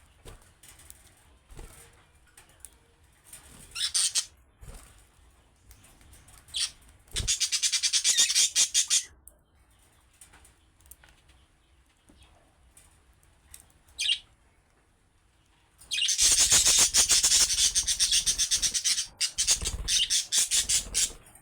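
Budgerigars chattering and chirping in bursts: short high calls now and then, and two loud spells of fast, rapid-fire chatter, the second and longer one starting about two-thirds of the way in.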